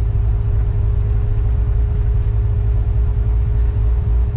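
Modified, supercharged 6.2-litre V8 of a 2016 Corvette Z06, heard from inside the cabin as a deep, steady rumble while the car drives slowly, with a faint steady tone above it.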